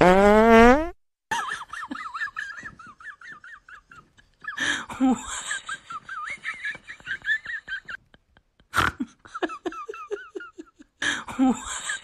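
A loud buzzy fart sound, rising in pitch over under a second. It is followed by bursts of high-pitched giggling in three stretches, broken by short pauses.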